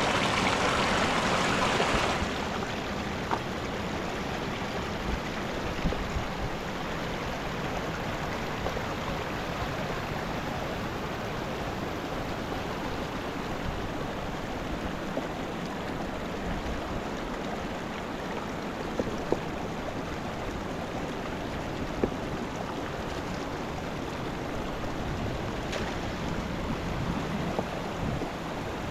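Mountain river rushing steadily, louder for about the first two seconds, with a few faint clicks scattered through it.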